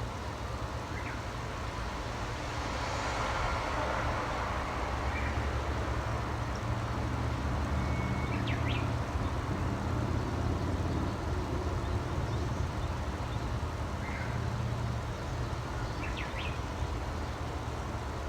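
A steady low rumble with a broad swell a few seconds in, and a few short, scattered bird chirps over it.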